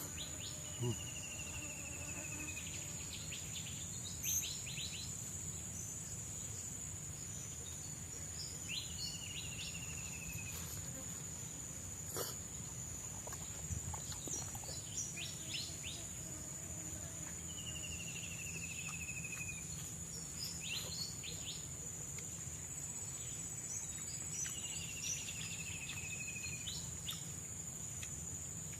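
Tropical forest ambience: a steady high-pitched insect drone, with a short falling call repeated every six or seven seconds and scattered short chirps from birds or insects. A single sharp click comes about twelve seconds in.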